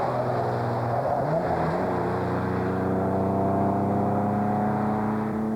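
Classic car engine revving hard under acceleration. The note jumps up about a second and a half in, then climbs steadily as the car pulls, with road noise underneath.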